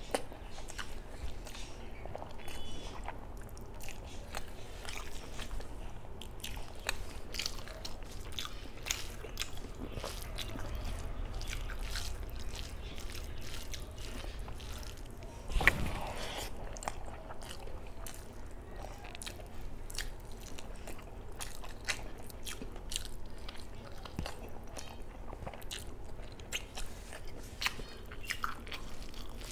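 Close-miked chewing and wet mouth sounds of a person eating rice with chicken curry by hand, with the soft squish of fingers working the rice on a banana leaf and many small clicks. One louder knock comes a little past halfway.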